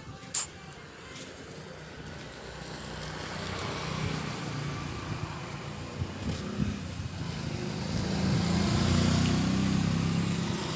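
A motor vehicle's engine running and growing steadily louder, loudest near the end, with a sharp click about half a second in.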